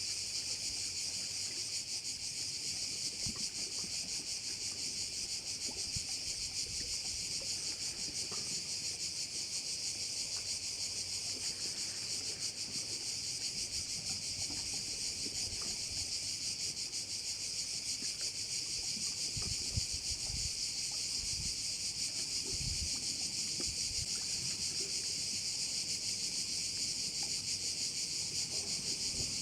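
Dense, unbroken chorus of crickets, a steady high-pitched shrilling with a fast fine pulse. Faint low rumbles come and go underneath.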